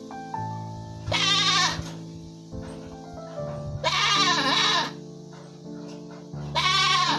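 Three loud, wavering bleats, spaced about two and a half seconds apart, over background keyboard music.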